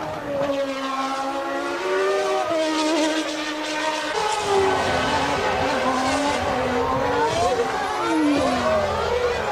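1992 Formula One cars' 3.5-litre naturally aspirated engines at high revs, their pitch rising and falling with gear changes. From about four seconds in, several cars are heard together, and near the end their notes drop in pitch as they pass.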